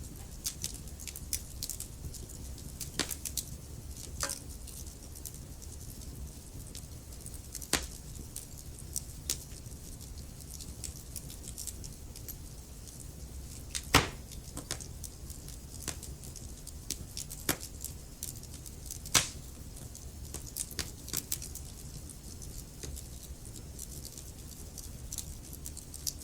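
Wood fire crackling in a fireplace: irregular pops and snaps over a low steady rumble, with a sharp louder pop about halfway through and another about five seconds later.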